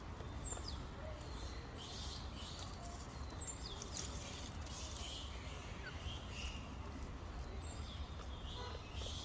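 Outdoor ambience with a steady low rumble and a few short, high chirps from birds, each sliding down in pitch, spaced a few seconds apart.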